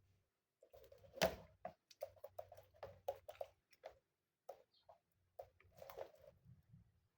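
A string of irregular light taps and clicks, about a dozen, with a sharper one about a second in.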